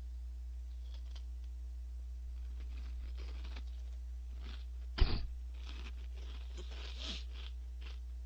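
Crunchy chewing of a mouthful of Orion Gorae-bap, the small baked fish-shaped crackers, in scattered crackles over a steady low hum. A sharp knock about five seconds in is followed by a run of louder crunches.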